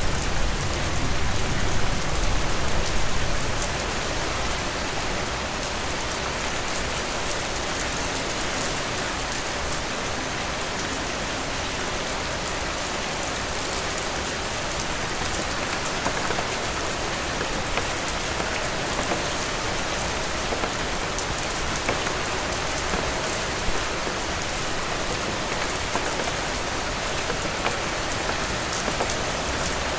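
Heavy rain falling steadily, an even hiss with fine drop ticks through it. A low rumble underneath in the first few seconds eases off about three seconds in.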